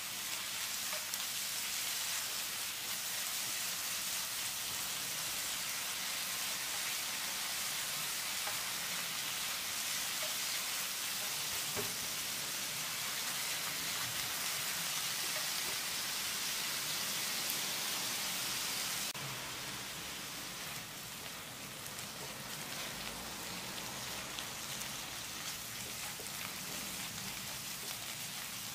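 Grated zucchini and onion sizzling in hot oil in a granite-coated frying pan as they are stirred with a silicone spatula: a steady frying hiss that drops a little in level about two-thirds of the way through.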